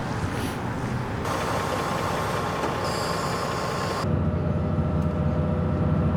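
Steady rumble of a vehicle's engine and running noise. The sound changes abruptly twice, about a second in and again past the halfway mark, after which the low rumble is stronger.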